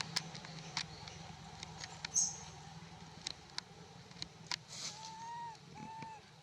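Two short arched calls, typical of a baby monkey, come close together near the end. They sit over scattered sharp clicks and taps, a brief high chirp about two seconds in, and a faint steady hum.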